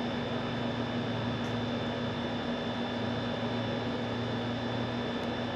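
A steady, unchanging machine hum with a hiss over it, from a running motor.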